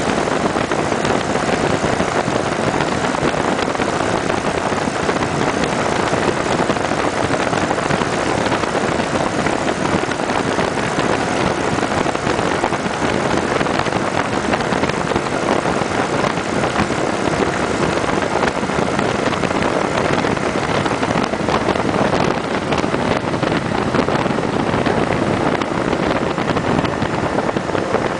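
Steady rush of wind and engine and road noise from a Kawasaki Vulcan 900 Custom SE motorcycle riding along, with wind buffeting the microphone.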